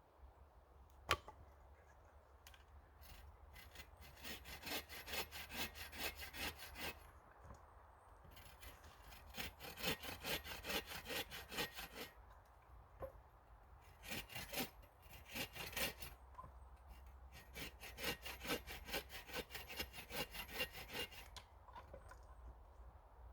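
Hand saw cutting wood in several bouts of quick back-and-forth strokes, with pauses between bouts and a single sharp knock about a second in.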